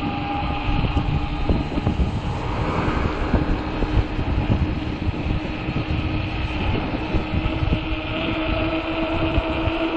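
Fat-tire e-bike's 48 V hub motor whining steadily under throttle, over low wind buffeting on the microphone and tyre rumble. A second, higher tone in the whine grows stronger near the end.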